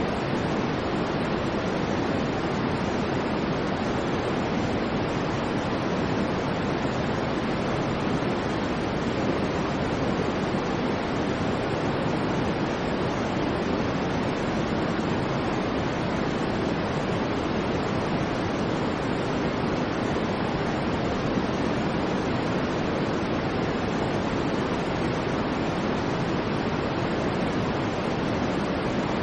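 Steady electronically generated noise, an even hiss heavier in the low-middle range than in the highs, with no change in level or character.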